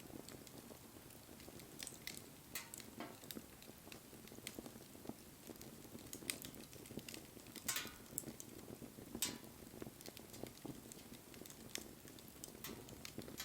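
Wood fire burning: a low steady rustle of flames with scattered sharp crackles and pops, the loudest about two and a half, eight and nine seconds in.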